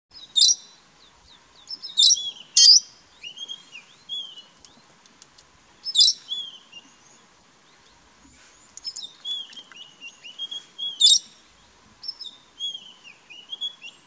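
Wild birds calling: five loud, sharp, high-pitched shrieks at irregular intervals, with softer whistled notes between them that slide down and up in pitch.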